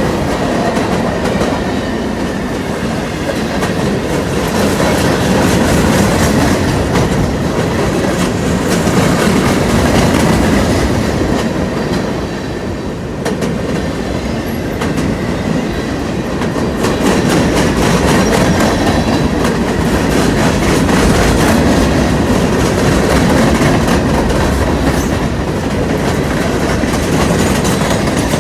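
Freight cars of a manifest train rolling past: a steady, loud rumble with the clickety-clack of wheels over rail joints.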